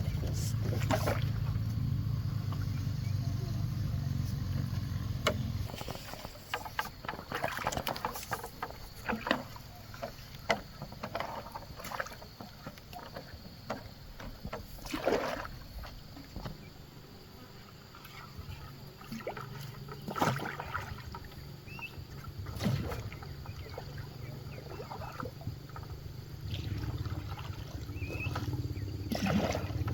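Bamboo raft being paddled on a lake: scattered wooden knocks and water splashes. A low steady hum runs under it for about the first five seconds and again through the second half.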